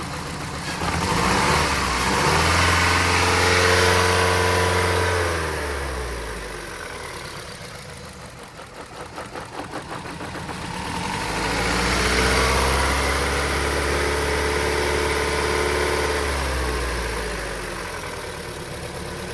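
The Ford Escape's four-cylinder engine, which has a cylinder-1 misfire, revved up twice. Each time the pitch climbs, holds steady for a few seconds, then falls back, with a lower, uneven running between the two revs.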